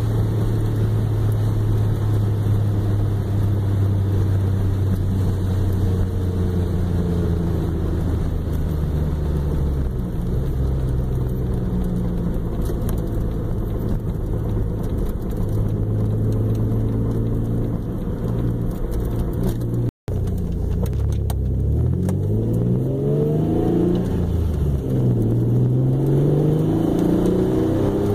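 Turbocharged Mazda MX-6 LS V6 engine heard from inside the cabin, running steadily while cruising. The sound cuts out briefly about twenty seconds in, then the engine revs up in rising pitch sweeps that drop and climb again as the car accelerates through the gears.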